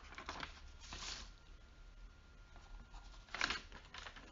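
Quiet room tone with a few faint rustling noises, the sharpest one near the end.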